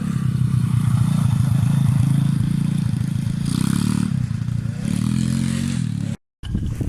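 125 cc dirt bike engine running close by with a steady, slightly varying note, working through mud, with bursts of hiss partway through. The sound breaks off abruptly near the end.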